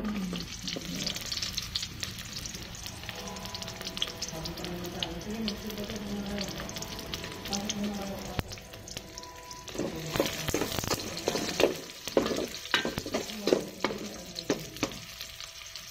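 Sliced onions and garlic sizzling in hot oil in an aluminium pot. From about ten seconds in, a metal spoon scrapes and clacks against the pot as they are stirred.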